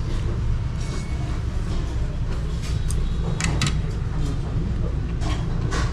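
Low steady rumble of street traffic, with several short sharp clicks scattered through it.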